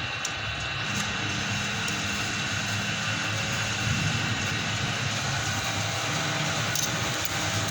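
Manual metal lathe running steadily, a continuous machine hum with faint steady whining tones, during turning of a stainless steel plate.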